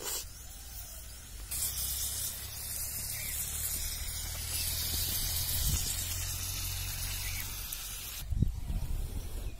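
Chopped tomatoes sizzling in hot oil in a metal wok over a wood fire: a steady hiss that starts about a second and a half in and cuts off abruptly near the end, followed by a few knocks.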